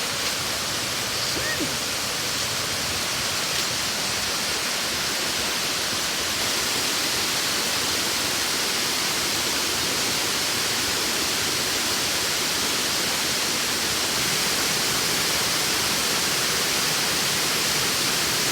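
Waterfall, the falling water making a steady, even rushing noise that does not change.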